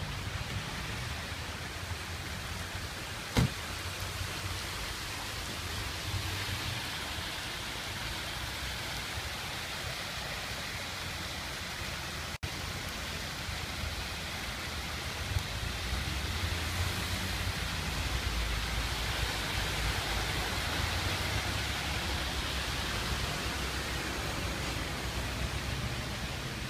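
Steady rush of rainwater pouring and splashing into the metro station after a downpour, with a low rumble beneath and one sharp click about three and a half seconds in.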